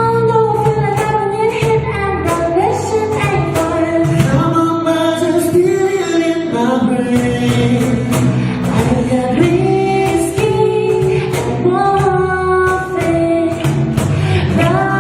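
Band music with a woman singing a sustained melody over regular percussion strokes.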